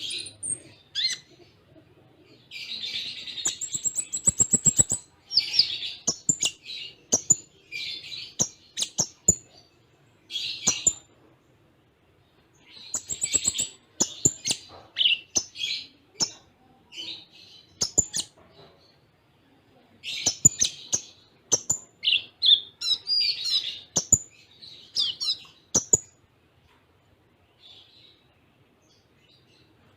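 Kolibri ninja (konin), a sunbird, singing fast, busy phrases of high chirps and trills in rapid bursts with short pauses between them, laced with sharp clicking notes. This is a tutor song filled with cililin-style phrases. The singing stops about four seconds before the end, leaving only a few faint notes.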